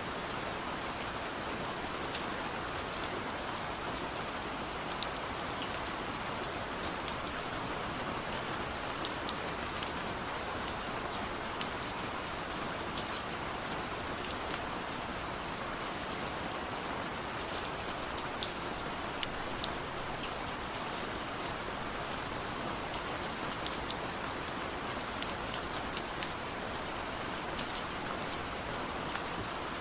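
Steady light rain falling, an even hiss with many small sharp drop ticks scattered through it.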